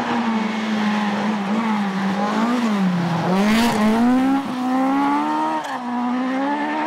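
Rally car engine running hard, its pitch rising and falling as the driver works the throttle and gears, with a sharp dip and climb about three seconds in. A brief hiss of noise comes about half a second later.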